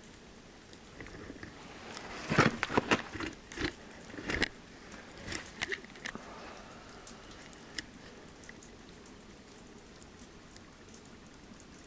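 Steady hiss of falling water from a waterfall, with a cluster of sharp crunching clicks and knocks for a couple of seconds near the start and a few scattered ticks after.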